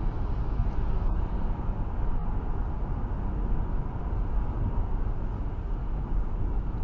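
Steady road and tyre noise inside a car cruising on a motorway: an even low rumble with a hiss above it.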